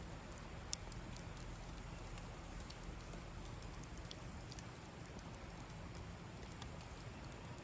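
Campfire crackling: scattered small sharp pops over a steady hiss.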